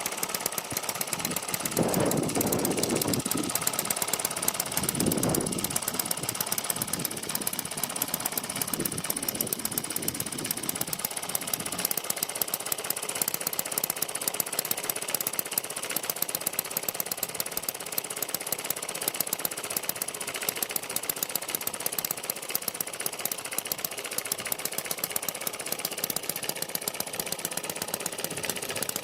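Microcosm M92 miniature model engine running steadily with a fast, even train of sharp firing pops, fitted with an extended exhaust and retarded ignition timing. Two louder, deeper swells come about 2 and 5 seconds in.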